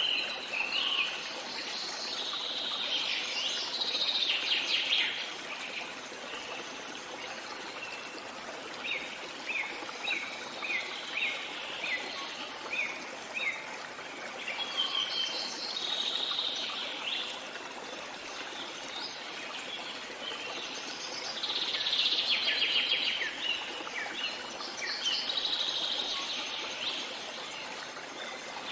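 Songbirds singing and chirping over the steady rush of a flowing stream. The bird phrases come in several bouts, including a run of short repeated chirps about two a second midway.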